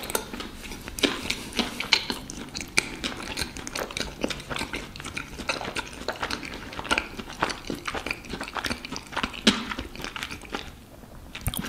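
A person chewing a mouthful of cream cheese bagel with cucumber and arugula: irregular moist crunches and smacks that die away near the end.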